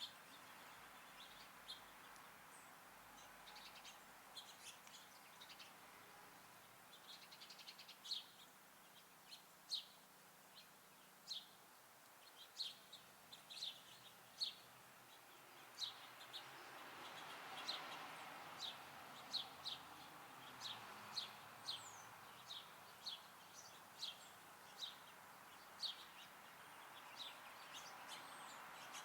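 Small songbirds chirping faintly: many short, high chirps, scattered and now and then in quick runs.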